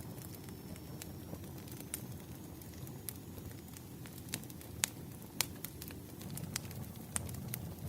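Campfire crackling: a steady low rumble of burning wood with sharp pops and snaps every second or so, the loudest two around five seconds in.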